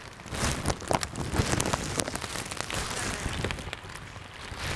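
Rain falling steadily, with many sharp single drop hits close to the microphone.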